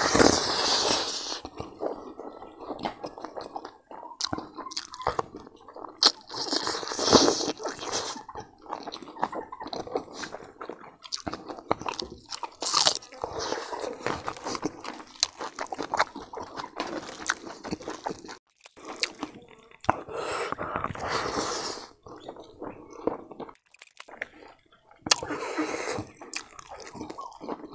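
Close-miked eating sounds: a man chewing and crunching mouthfuls of rice and roasted pork fat, with wet smacking of the lips, coming in bursts with short pauses.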